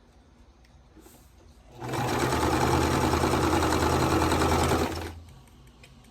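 Electric sewing machine running at a steady speed for one burst of about three seconds, stitching a seam in quilt block pieces. It starts about two seconds in and stops about five seconds in.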